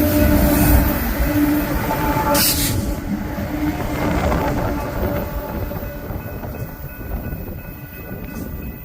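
Freight cars of a BNSF coal train rolling past on the rails: a steady rumble with faint ringing wheel tones and a brief hiss about two and a half seconds in, slowly fading toward the end.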